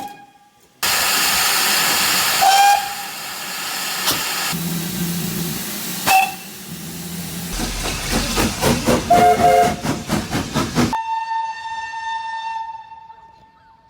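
Steam locomotive whistles blowing amid loud steam hiss, in several short takes. A rhythmic pulsing comes around the middle, then one long steady whistle note sounds and fades away near the end.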